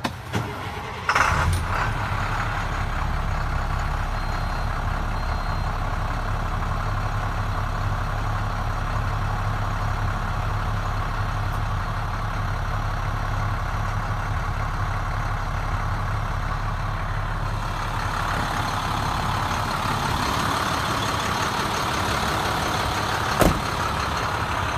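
The International CXT's DT466 inline-six diesel starts about a second in and settles into a steady idle. Its sound brightens about eighteen seconds in, and there is a sharp click near the end.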